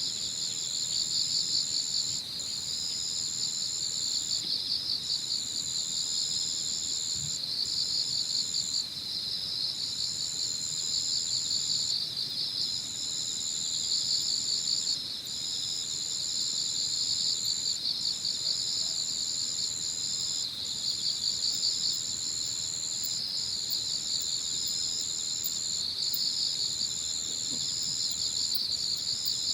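Chorus of singing insects. One high, continuous trill breaks off briefly every second or two, and a lower, rapidly pulsing chirping runs underneath it.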